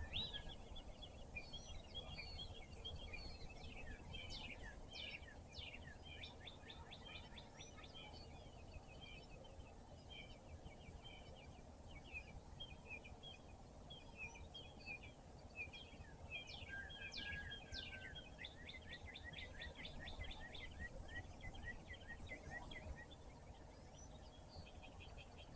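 Several small songbirds chirping and trilling in quick repeated notes, over a steady low background rumble.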